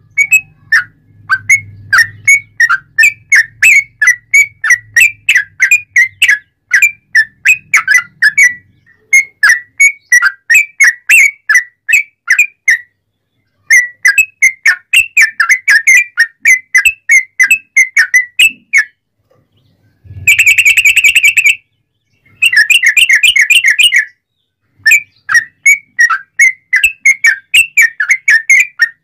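Yellow-vented bulbul (trucuk) singing loudly: quick, repeated whistled notes, several a second, broken by short pauses. About two-thirds through comes a dense, rapid trill.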